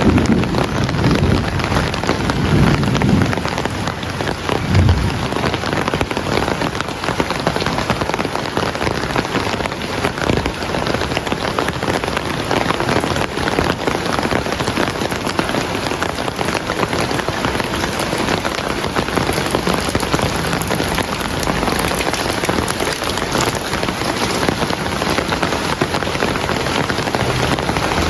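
Heavy rain falling steadily, a dense, even hiss of drops. There is some deeper rumbling in the first few seconds.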